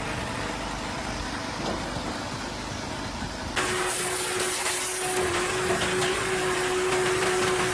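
Firewood processing machinery running, a steady engine hum holding one constant tone. About three and a half seconds in, the sound changes abruptly and a louder hiss joins it.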